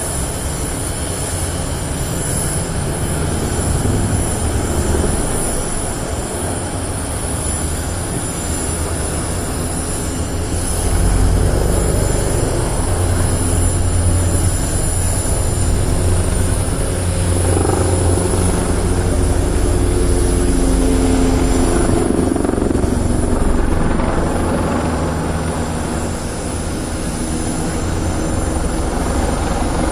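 Eurocopter Tiger HAD twin-turboshaft attack helicopter flying a display, its rotor and engines sounding steadily, growing louder about eleven seconds in as it passes closer.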